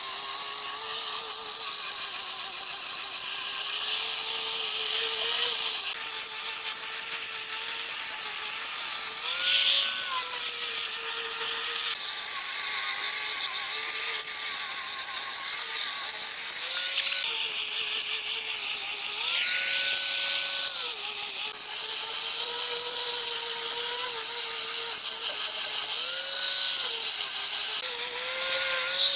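Chainsaw cutting wood, its motor running steadily under load with a dense hiss of cutting. The pitch rises briefly about five times as the chain comes free.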